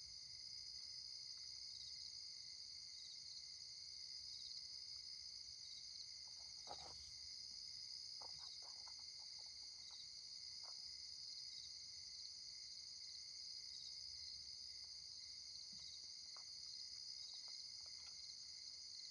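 Faint, steady night chorus of crickets: a continuous high-pitched trilling, with a few faint ticks around the middle and near the end.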